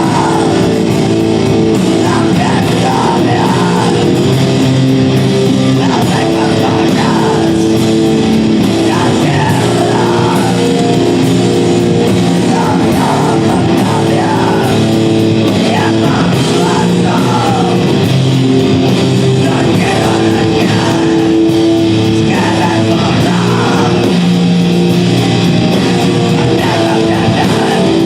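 Loud live rock band playing heavy distorted electric guitars, with shouted or sung vocals.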